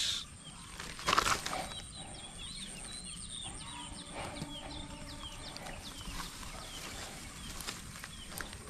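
Small birds chirping repeatedly, with a brief loud rustling burst about a second in.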